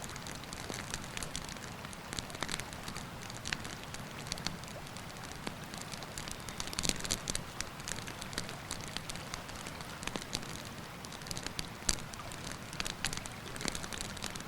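Wood campfire crackling, with irregular sharp pops and snaps, the busiest cluster about halfway and the loudest single pop near the end. Under it a steady rushing noise, the flowing river.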